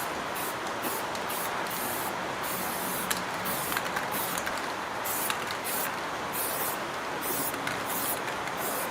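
Steady spraying hiss, pulsing in short bursts of higher hiss, with a few faint clicks: spray or compressed air being used on the work.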